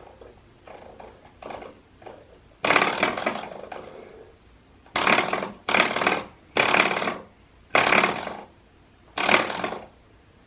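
A baby making short, voiced babbling and squealing sounds, several separate bursts of about half a second each.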